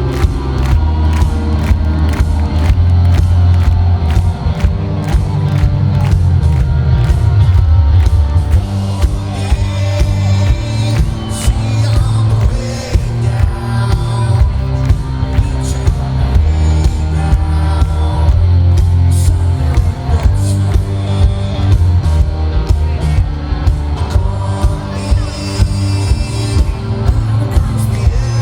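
Live rock band playing loudly, with a steady driving drum beat under the music.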